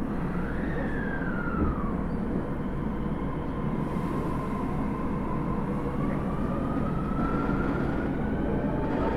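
Osaka Metro 30000 series subway train running, its Hitachi SiC-VVVF inverter and traction motors giving a whine that falls over the first two seconds, holds, then rises slowly through the second half. Underneath is a steady rumble of wheels on rail.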